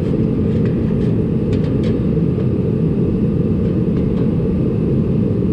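Steady low rumbling noise of a workshop space heater running, with a few faint light clicks.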